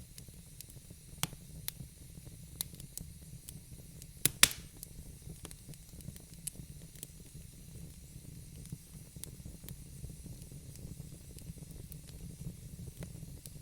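Wood burning in a fireplace: a steady low rumble and hiss with scattered crackles and pops, the loudest a quick double pop about four seconds in.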